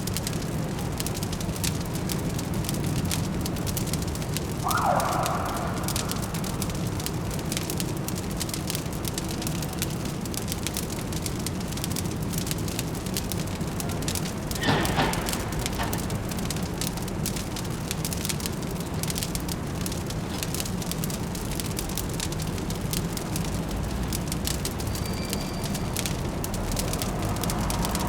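Fireplace crackling steadily over a low, constant city hum. A brief mid-pitched sound comes about five seconds in, and a short louder sound comes about fifteen seconds in.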